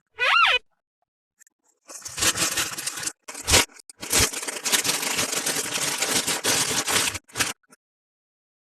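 A short squeaky chirp that rises and falls in pitch, then about five seconds of plastic toy packaging being torn open and crinkled, with a few short breaks.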